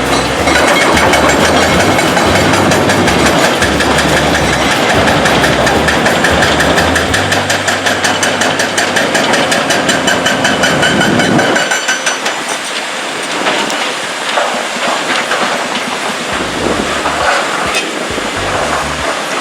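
Heavy machinery running loud, with a rapid, even clatter and a steady whine. About twelve seconds in it drops to a quieter, scattered clatter.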